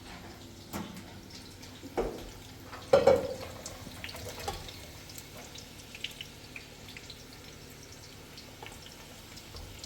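Water trickling and dripping with a few knocks and clatters, the loudest about three seconds in, and small clicks after.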